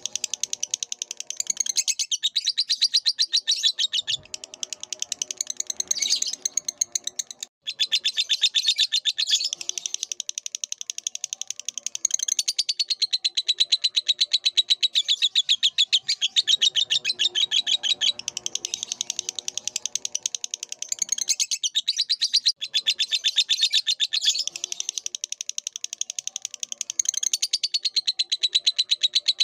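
Lovebird singing a long, fast, unbroken chatter of high notes, broken only by a very short gap about seven and a half seconds in.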